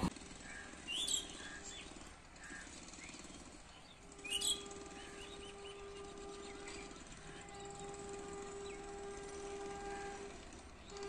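Quiet outdoor ambience with two short bird chirps, about one second and four seconds in, over a faint steady hum.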